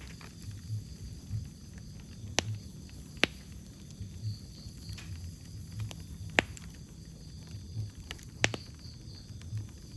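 Wood fire crackling in a fireplace: a low, uneven flutter of flames with scattered sharp pops, four of them standing out clearly.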